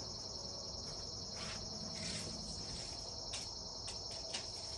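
Steady high-pitched chorus of insects such as crickets, with a few light clicks.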